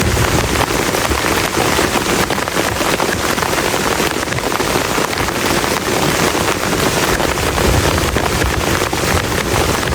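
Very heavy rain falling steadily on a plastic tarp, a dense, even hiss of countless drop hits that neither builds nor lets up.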